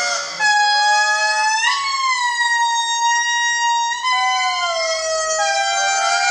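A group of indri lemurs singing: several overlapping wailing voices, each holding a long, siren-like note that slides downward, with fresh wails starting every second or two.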